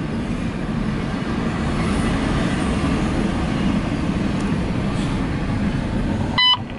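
CSX intermodal and autorack freight cars rolling past on the rails: a steady low rumble. A short beep sounds near the end.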